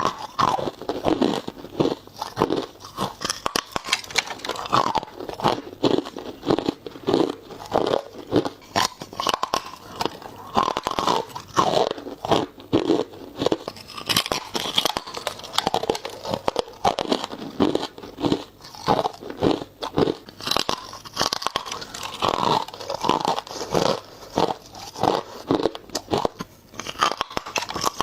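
Ice being bitten and chewed: a continuous run of crisp crunches, several a second.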